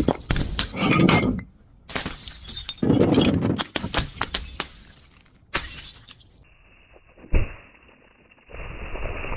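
Glass being crushed and shattering: runs of crunching and sharp cracks with clinking shards. After a change in the sound, a single thump comes about seven seconds in, and a steady rushing noise follows near the end.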